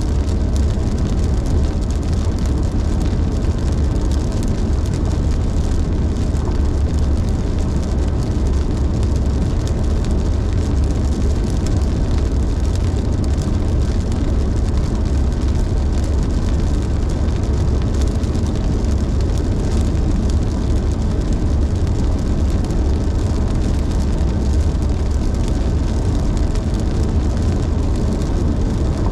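Car driving at steady speed: constant low road rumble with an even hiss of tyre and wind noise, without change.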